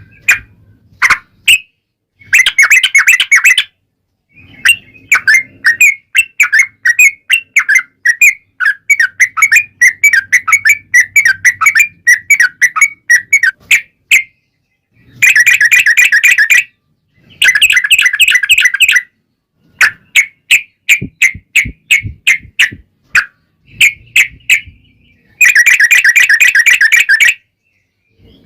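Yellow-vented bulbul (trucukan) singing a lively run of quick chirps, broken by several long, fast rolling trills about a second and a half each. This is the full, energetic song that keepers play as a lure to get other bulbuls singing back.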